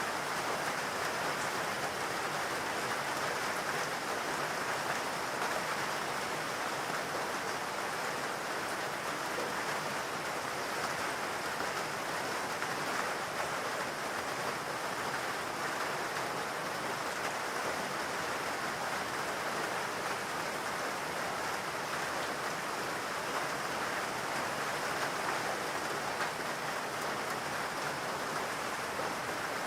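Steady, even rain falling, a continuous hiss of drops with no breaks or single loud drops.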